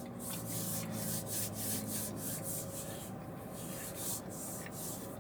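Chewing a mouthful of Blizzard ice cream with pretzel pieces and peanuts close to the microphone, in a steady rhythm of about two or three chews a second. A low "mmm" hum runs under the first couple of seconds.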